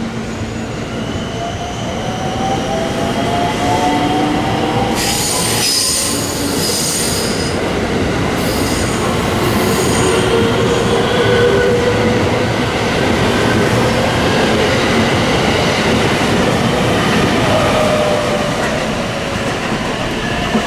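Electric commuter train pulling out of the station alongside the platform: steady running rumble, an electric motor whine that rises in pitch as it gathers speed, and high wheel squeal from about five to ten seconds in. Near the end a falling whine is heard as another train comes in.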